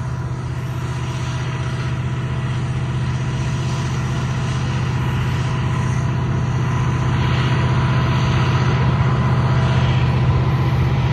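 Union Pacific freight train passing: a steady low diesel-locomotive engine drone over the rumble of freight cars rolling on the rails, growing slightly louder.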